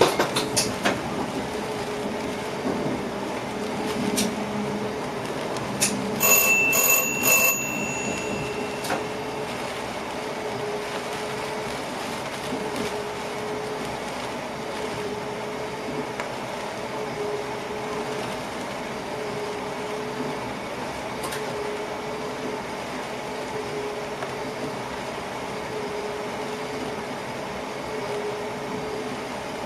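Inside the cab of an NS passenger train: a steady running hum with a low tone repeating roughly every second and a half. About six seconds in there is a short cluster of clicks with a brief high-pitched beep.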